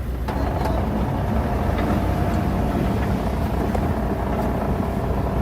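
Heavy diesel engine of earthmoving machinery running steadily: a deep, even rumble with a faint steady whine above it.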